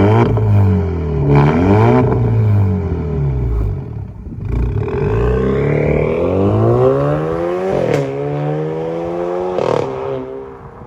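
Alfa Romeo Giulia with its muffler and resonator deleted, accelerating hard. The exhaust note climbs in pitch through each gear and drops at each upshift with a short pop. It eases off near the end.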